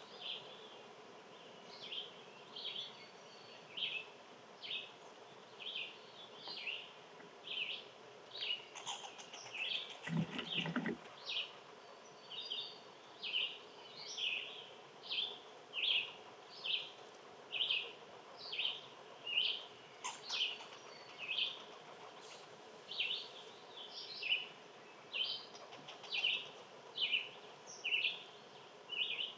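A bird chirping over and over, one short high chirp about once a second, steady throughout. A brief low thump about ten seconds in.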